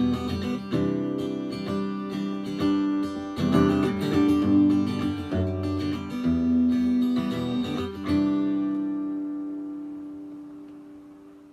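Guitar strummed through a Traynor TVM15 amp: a run of chords, then a last chord about eight seconds in, left to ring and fade away.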